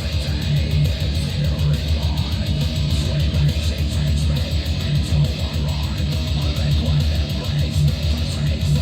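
Guitar-driven music with a heavy, pulsing bass line, played through an Anker Soundcore Boom 2 Bluetooth speaker at 30% volume with the Treble boost preset and bass-up.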